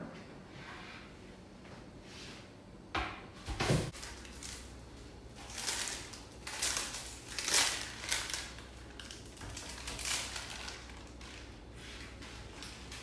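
Handling noises: a couple of knocks about three seconds in, then several short scraping sounds over the next five seconds.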